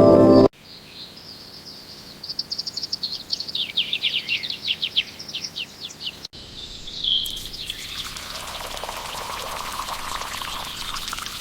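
A small bird chirping in a fast run of short notes that fall in pitch over a few seconds. After a break, a single chirp and then a steady hissing noise.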